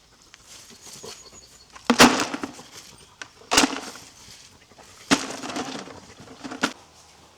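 Three loud impacts about a second and a half apart, each followed by a clattering rattle that lasts about a second.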